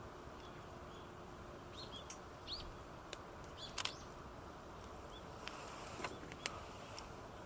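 Wood campfire crackling with scattered sharp pops over a steady low hiss, while small birds chirp briefly a few times, about two seconds in.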